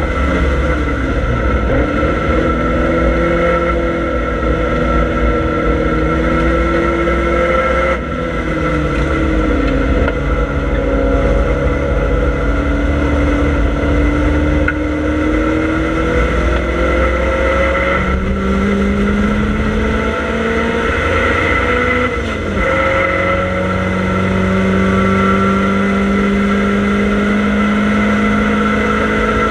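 Triumph Dolomite Sprint race car's 16-valve slant-four engine heard from inside the stripped cabin at racing speed. The revs climb steadily and drop back sharply several times, as at gear changes, over a constant low road and wind rumble.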